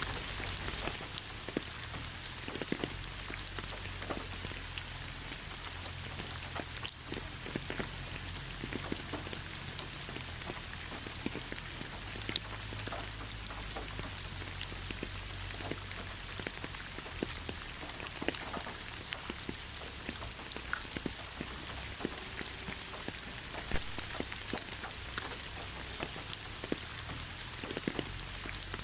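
Steady rain falling, with many individual drops ticking sharply on a surface over a constant hiss and a low rumble.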